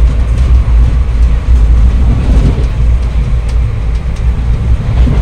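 Loud, steady low rumble of a moving passenger train, heard from inside the coach, with a hiss of running noise above it.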